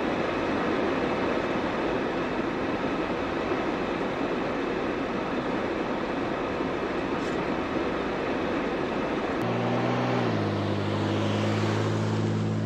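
Steady road and engine noise of a vehicle driving slowly downhill. About nine and a half seconds in it gives way abruptly to a steady engine hum with several pitches, which drops a step in pitch a moment later and then holds.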